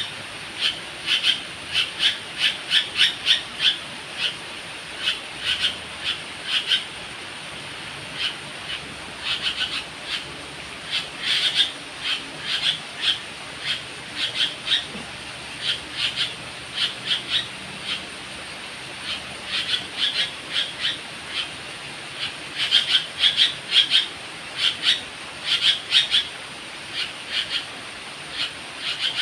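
Bird calls: quick runs of short, sharp notes, with a steady high thin hum underneath.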